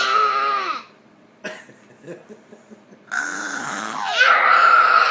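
A baby's strange, rough high-pitched squealing growls: one short cry at the start, a brief burst, then a longer strained squeal from about three seconds in.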